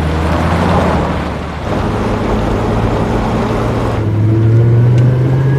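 A motor vehicle engine running loudly, its pitch climbing in the last couple of seconds as it revs up, then cutting off abruptly.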